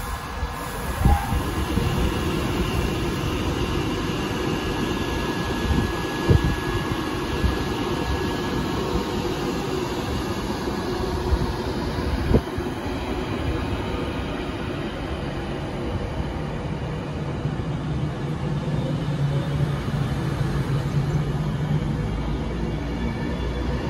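Avanti West Coast Class 390 Pendolino electric train pulling slowly away from the platform and gathering speed: a steady low rumble of wheels on rail with a few sharp clicks over the rail joints, and a low electric hum that builds over the last several seconds.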